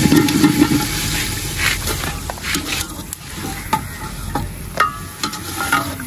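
Sliced potatoes dropped into hot oil and masala in an aluminium degh, sizzling as they fry, loudest in the first second. A long metal ladle stirring them clinks and scrapes against the pot several times.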